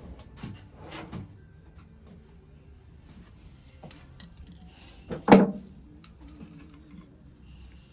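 Workshop handling noise: a few light knocks, then one loud clank with a short ringing tail about five seconds in, like a metal tool or part being set down on a hard surface.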